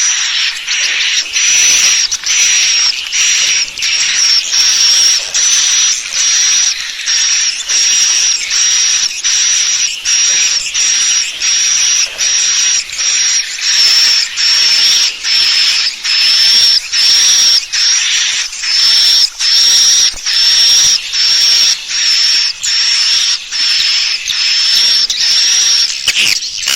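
Swiftlet call lure recording: a steady run of harsh, buzzy chirps with a high whistled edge, repeating a little more than once a second. It is the call sound played to draw swiftlets in to roost and nest.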